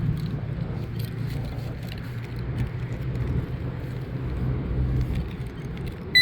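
Wind buffeting the microphone: a steady low rumble with faint scattered clicks. Right at the end a short high electronic beep, a metal detector's target tone, starts.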